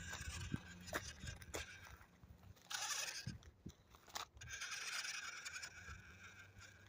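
Toy RC monster truck's small electric motor and gears whining in short runs, with its tyres scraping and clicking over dirt. There is a short rough burst about three seconds in, and a steadier whine a little after four seconds.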